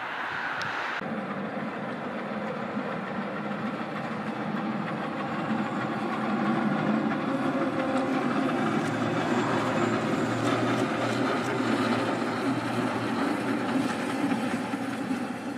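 Rhaetian Railway train running by, its wheels clattering on the rails, getting louder about six seconds in.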